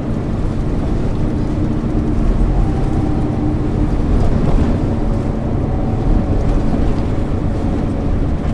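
1999 MAN ÜL 353 diesel bus under way, its engine and drivetrain running with a steady low drone and an even hum.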